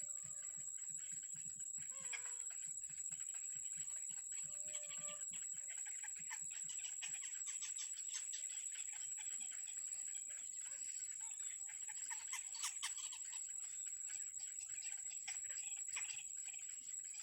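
Nestlings in the nest chirping in quick, repeated short calls that grow busier about six seconds in, over a steady high-pitched whine. A few short lower notes come in the first few seconds.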